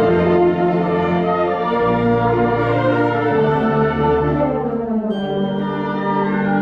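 Concert wind band playing: brass holding sustained chords over bass notes that change every second or two.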